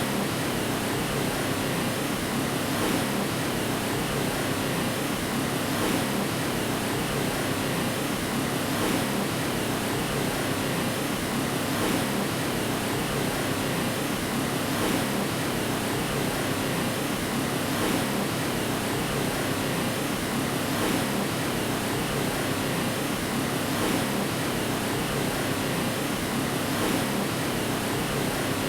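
Steady white-noise hiss for lulling a baby to sleep, an even rushing sound with a faint swell about every three seconds, as if the track loops.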